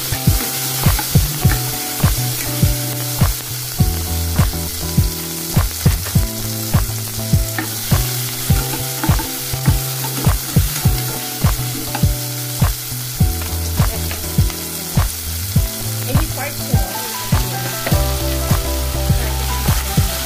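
Onion, garlic and tomato sizzling as they sauté in oil in a nonstick pot. A plastic spatula stirs and knocks against the pot about twice a second.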